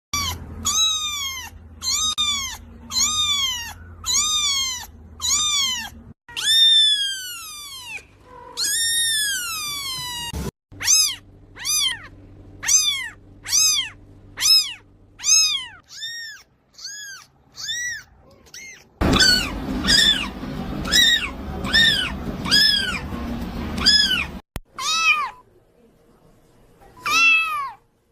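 A cat meowing over and over in short, high-pitched calls that rise and fall, about one a second, with a few longer drawn-out meows among them.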